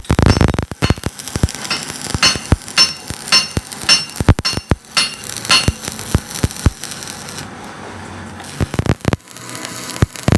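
Repeated sharp metallic strikes at an irregular pace, several ringing briefly, with a calmer, steadier stretch about seven to eight seconds in.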